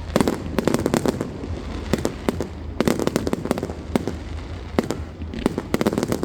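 Fireworks going off in a rapid barrage of sharp bangs and crackles, coming in dense clusters a second or two apart, picked up by a smartwatch microphone.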